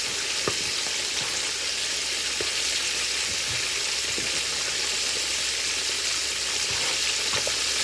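Chicken wings deep-frying in hot oil in a cast iron skillet: a steady, even sizzle with scattered small pops and crackles.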